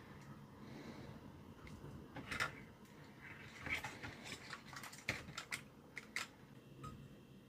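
Irregular light plastic clicks and taps, about a dozen starting some two seconds in: the push-buttons of a 1983 Bush radio alarm clock being pressed and the unit handled while its intermittent button fault is tested.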